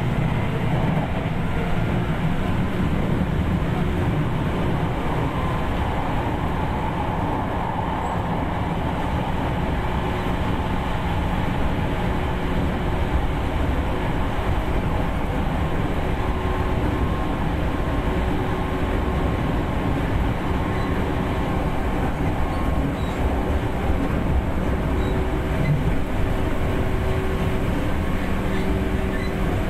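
JR 211 series 3000-subseries electric train running along the line: a steady rumble of wheels on rail and MT61 self-ventilated traction motors, with faint steady tones about halfway in.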